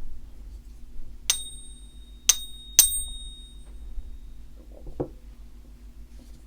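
A one-ounce silver Silver Eagle type 2 coin tapped three times, each tap giving a clear, high bell-like ping that rings on briefly, the last two close together: a ping test of whether the coin is genuine silver. A duller knock follows about five seconds in.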